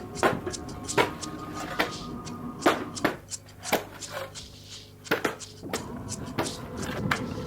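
Sharp knocking strikes, irregular but roughly one a second, of a tool hitting something hard during renovation work.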